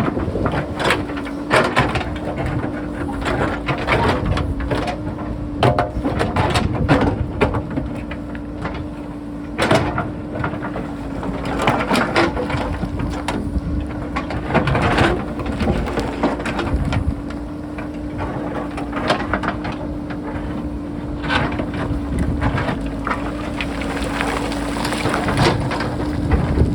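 JCB backhoe loader working on rock: its diesel engine runs with a steady drone under load, while the bucket knocks and scrapes against stone again and again.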